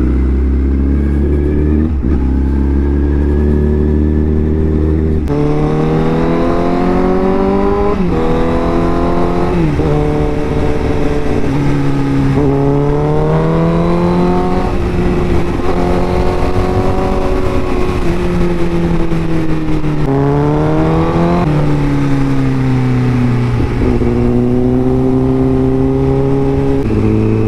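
Honda CBR1000RR Fireblade's inline-four engine, still on its SC Project aftermarket exhaust, running while the bike is ridden. It holds a steady drone for about five seconds, then pulls hard through the gears, rising in pitch and dropping sharply at each upshift, several times over.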